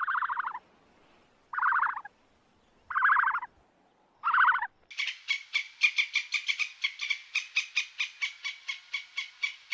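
Animal calls: four short calls about a second and a half apart, each sliding slightly down in pitch, then from about halfway a fast, rapidly pulsing call of about six pulses a second.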